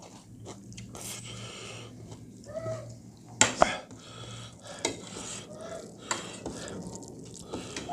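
Cutlery clinking and scraping against plates and bowls during a meal, with a few sharp clinks, two close together about three and a half seconds in.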